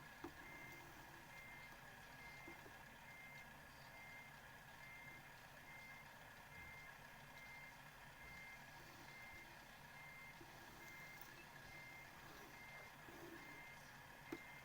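A vehicle's reversing beeper, sounding short electronic beeps at one fixed pitch, evenly spaced at about three every two seconds, over a faint low rumble. Two small clicks come near the start and near the end.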